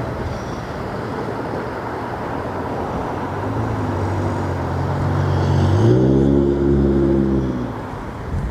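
Car on the road over steady road and tyre noise. Its engine note builds, steps up sharply in pitch as it accelerates hard, then fades away near the end.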